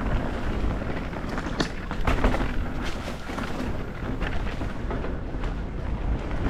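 Mountain bike riding downhill on a dirt trail: a steady low rumble of wind and tyres on the ground, with sharp clatters and knocks from the bike over bumps, bunched in the first half.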